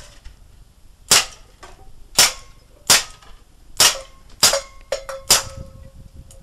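Airgun firing a string of six shots about a second apart, each a sharp crack, with a couple of lighter clicks between the later shots. A faint ringing tone hangs on after the later shots.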